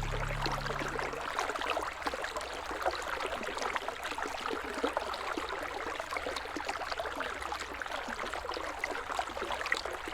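River water flowing steadily, a continuous rushing with many small splashes and gurgles over it.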